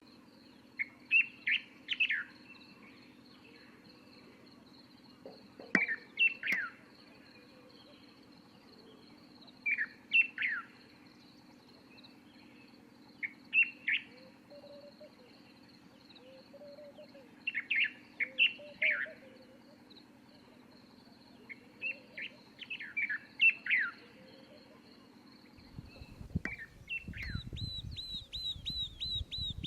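Birds singing in repeated short phrases of quick falling notes, one about every four seconds, over a faint steady high tone. Near the end a fast, evenly repeated high chirp starts up, with a low rumble underneath.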